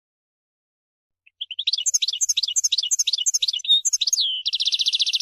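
European goldfinch singing. About a second in it starts a run of quick twittering notes, then breaks into a fast, buzzy trill near the end.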